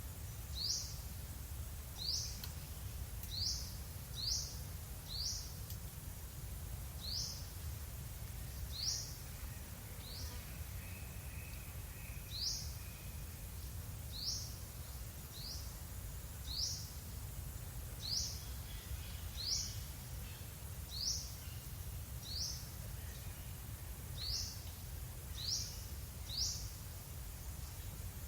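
A bird repeating one short, high call note that sweeps downward, roughly once a second, over a steady low rumble.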